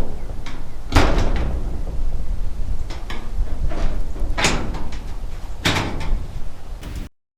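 Sheet-metal panels being handled and knocked: a few sharp metallic bangs, the loudest about a second in, over a low steady rumble. The sound cuts off suddenly near the end.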